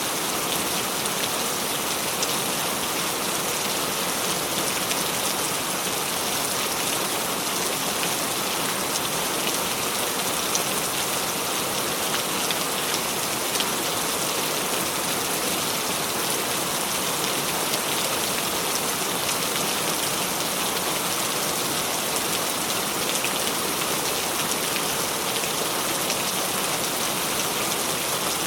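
Steady rain, an even hiss with many small drop ticks, holding the same level throughout.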